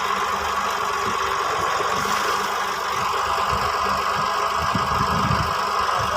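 Massey Ferguson 240 tractor's diesel engine running steadily.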